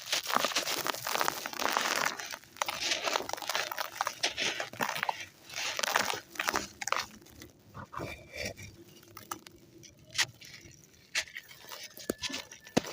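Dry, gritty red sand clumps crumbling and crunching between fingers in a run of gritty crackles, busiest in the first half and thinning to scattered crunches later.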